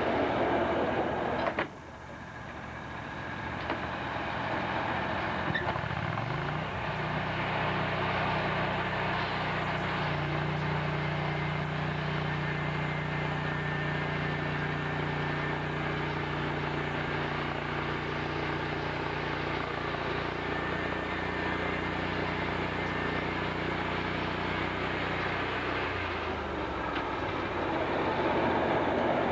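Sawmill machinery running. A noisy sound cuts off abruptly early on. A motor hum rises in pitch about six seconds in, runs steadily for most of the stretch, and falls away near the end as the noisier sound returns.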